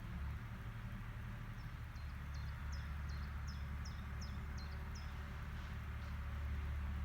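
Low, steady drone of an agricultural machine's engine working. Over it, a small bird sings a quick string of about nine high chirps, starting about one and a half seconds in and stopping after about five seconds.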